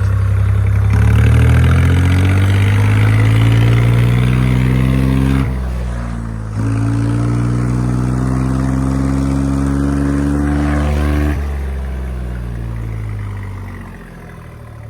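Tractor engine pulling away and gaining speed, its pitch rising. About five and a half seconds in the revs drop sharply for about a second, then climb again. Near the end the engine eases off and falls away.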